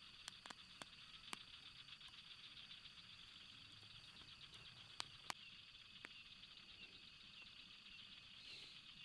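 A steady, fast-pulsing, high-pitched chorus of insects, with a handful of sharp clicks: a few in the first second and a half, and two close together about five seconds in.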